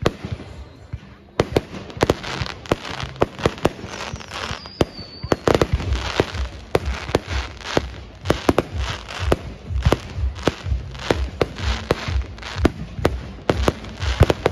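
Fireworks display: aerial shells bursting in a rapid barrage of sharp bangs, several a second, after a couple of sparser bangs at the start. A thin high whistle falls slightly about four seconds in.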